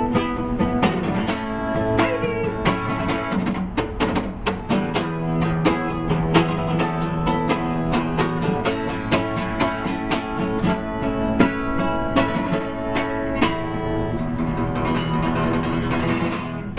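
Acoustic guitar playing the instrumental close of a song, quick strummed and picked notes at a steady level, stopping right at the end.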